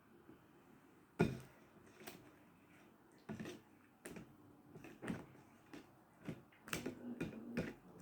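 Close-miked eating sounds: a string of sharp clicks and knocks, about nine in eight seconds, the loudest about a second in.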